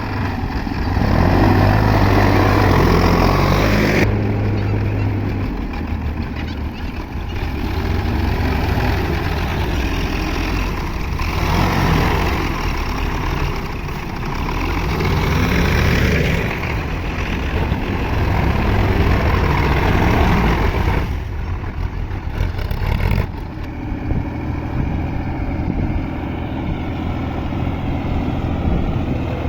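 Sonalika DI 740 tractor's diesel engine running hard under load, its revs swelling and easing every few seconds as it strains to pull a stuck trolley.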